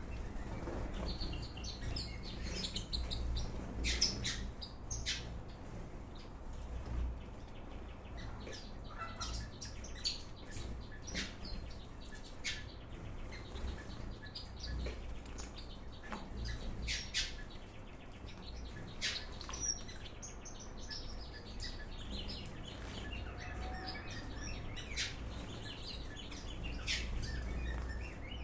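Many small ornamental aviary birds chirping and calling over one another, in short scattered calls, over a steady low rumble.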